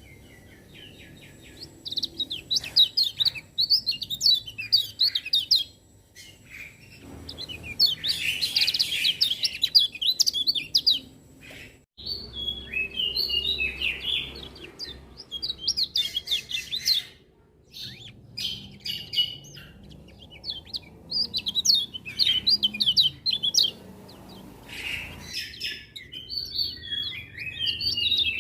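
Kecial kuning (lemon-bellied white-eye) singing: fast, high twittering song phrases in repeated bursts with short pauses between them.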